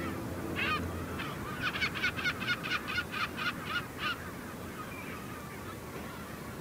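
A bird calling: one call, then a quick run of about ten calls at roughly four a second that stops about two-thirds of the way through.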